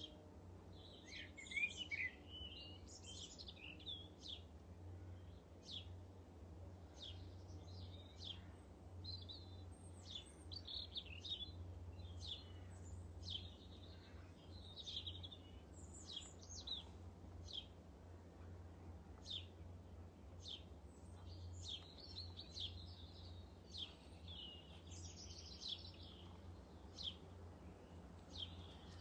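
Small garden birds calling and chirping in short, high notes, many calls overlapping, over a steady low hum.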